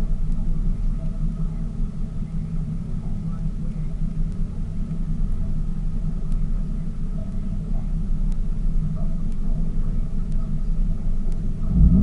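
Tour boat's engine running steadily, a low drone heard from aboard the boat, swelling briefly louder near the end.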